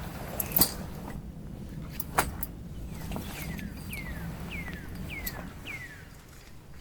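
A few sharp knocks and clicks, then a bird calling five short descending whistled notes in an even series, over a low steady outdoor background.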